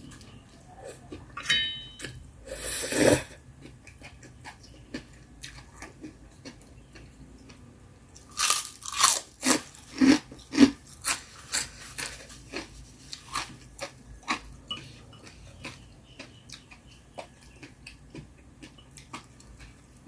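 Close-up eating sounds: crunchy bites and chewing of spicy mala with vegetables, with a run of loud crunches about eight to eleven seconds in, then quieter chewing.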